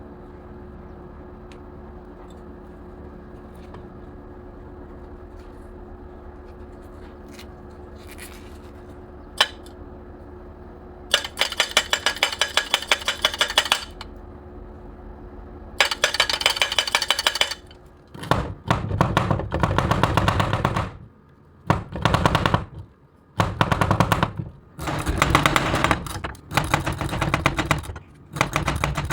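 Electric arc welding on scrap steel: a steady electrical hum, then, about a third of the way in, repeated bursts of rapid crackling, each a few seconds long with short pauses between.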